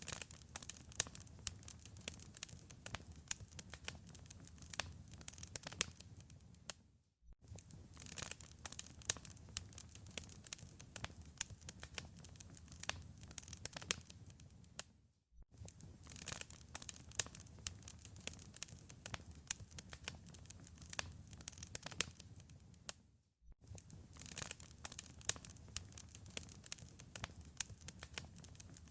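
Wood fire crackling in a fireplace: many sharp snaps and pops over a low, steady rumble of burning. The sound drops out to silence three times, briefly, about every eight seconds.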